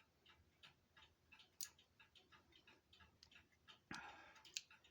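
Cuckoo clock movement ticking faintly, a few ticks a second, with a louder click about four seconds in.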